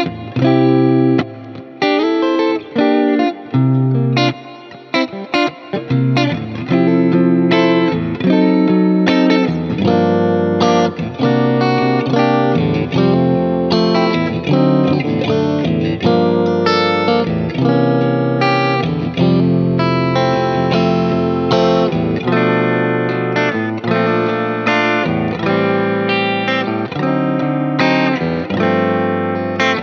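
Fender Player II Stratocaster with three single-coil pickups, played through an amp-simulator plugin with delay and reverb over a backing track. It starts with short choppy phrases broken by brief stops in the first few seconds, then plays more continuous notes and chords.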